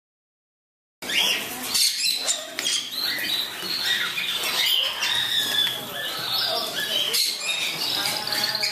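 Pet birds chirping, squeaking and squawking together as a busy, high-pitched chatter with occasional sharp clicks; it starts suddenly about a second in.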